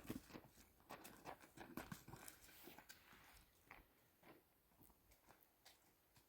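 Near silence: faint scattered clicks and small knocks that thin out after about four seconds.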